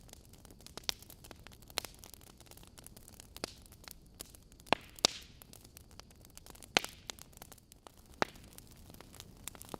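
Wood logs burning in a fireplace, crackling with sharp, irregular pops over a soft steady hiss. The loudest pops come about five seconds in and again near seven seconds.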